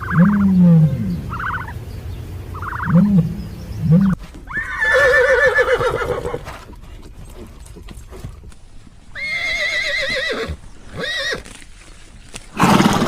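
A horse whinnying: a long quavering neigh about four seconds in, two more around nine to eleven seconds, and a loud one near the end. It follows a few short, repeated low animal calls in the first four seconds.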